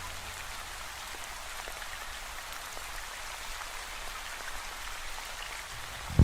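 Steady rain from a rain ambience track: an even hiss with scattered faint drop ticks. A song comes in abruptly right at the very end.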